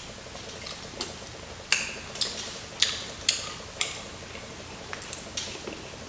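Close-up crunching of crispy fried chicken breading being chewed: a series of sharp, crackly crunches at uneven intervals, most of them in the middle of the stretch.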